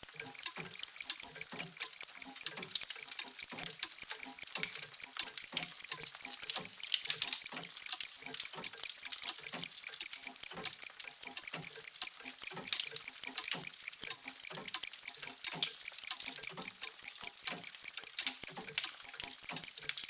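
Many clocks ticking out of step with one another, a dense and steady patter of overlapping ticks with softer, deeper tocks mixed in.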